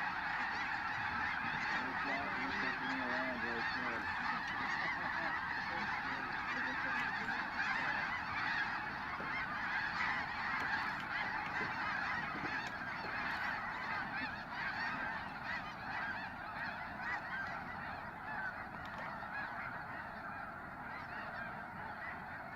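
A huge massed flock of snow geese calling together: a dense, continuous chorus of overlapping honks with no single bird standing out, easing slightly toward the end.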